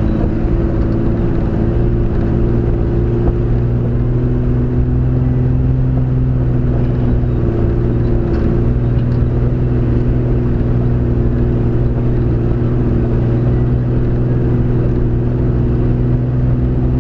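Four-wheel-drive vehicle's engine running steadily at low speed under load, climbing a loose dirt mountain road, heard from inside the cab as an even low drone.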